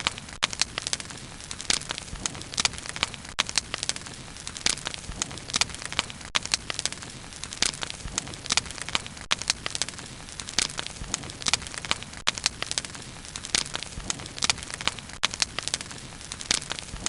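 Wood fire burning with a steady hiss and frequent irregular sharp crackles and pops.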